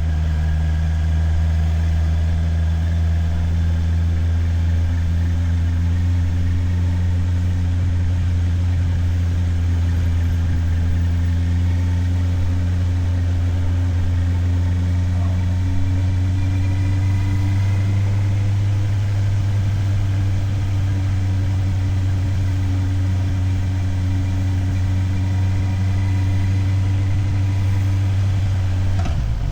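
Motorcycle engine running steadily at low revs, its pitch creeping slowly up partway through.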